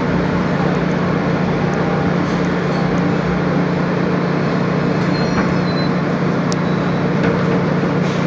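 Steady rumble and hum inside an R160B subway car, with a few faint high squeals about five seconds in.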